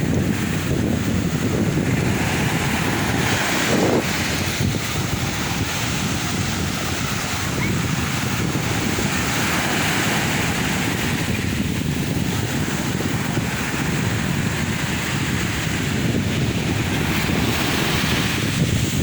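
Sea waves breaking and washing on the shore, the surf hiss swelling and easing every few seconds, with wind buffeting the microphone.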